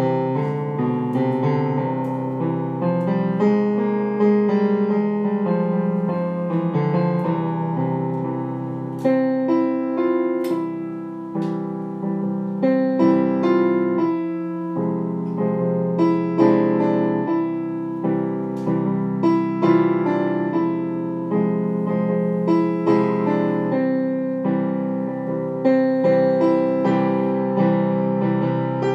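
Background piano music, with notes and chords struck at a moderate, flowing pace.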